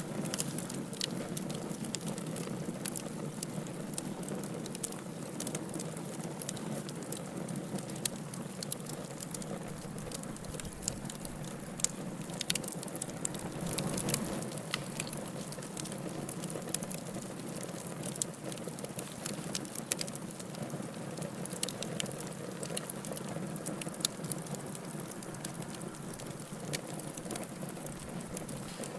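Wood fire burning in a fireplace, crackling and popping irregularly over a steady low rush of flame, with a slightly louder patch about fourteen seconds in.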